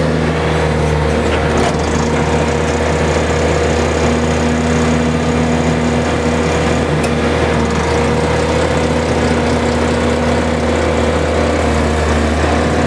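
A Bobcat X331 mini excavator's four-cylinder diesel engine running steadily with the throttle turned up, its pitch holding level.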